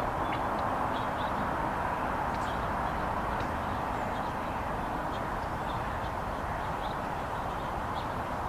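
Steady outdoor background rush, most likely distant road traffic, with faint short bird chirps scattered throughout.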